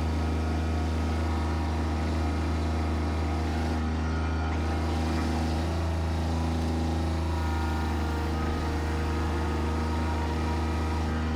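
Bobcat tractor's engine running steadily at a constant speed, a low, even drone.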